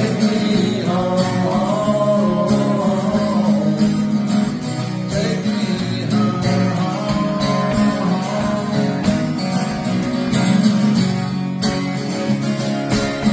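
Acoustic guitar strummed steadily in an instrumental passage of a song.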